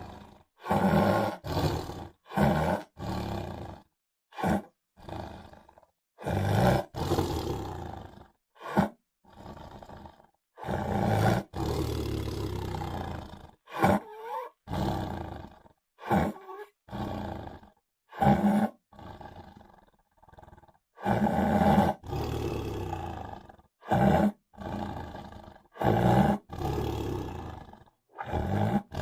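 Tiger roars and growls: a string of about twenty separate calls, from brief grunts to roars of two seconds or more, each cut off sharply by a short silence.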